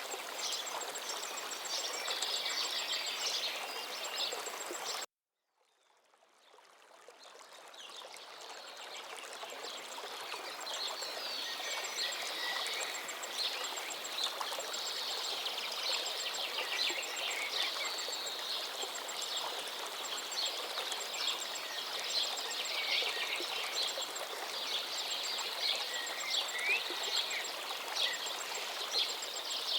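Forest river flowing steadily with songbirds chirping and singing over it. About five seconds in the sound cuts out completely for a moment, then fades back up over several seconds, as at a loop or edit point.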